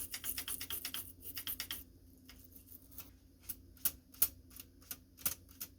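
Small sharp clicks from the typewriter's mechanism being handled: a quick run of about ten clicks a second for the first two seconds, then scattered single clicks.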